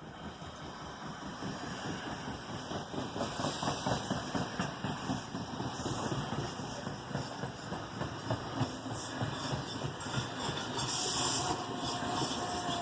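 NJ Transit train running through the station: a steady rush of wheels on rail and moving air. A short hiss about eleven seconds in, then a faint steady tone sets in near the end.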